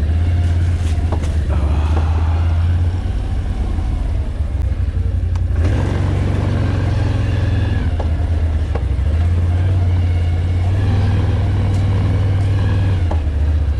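ATV engine running under way on a trail, easing off briefly about five seconds in and then picking up again, with a few scattered knocks.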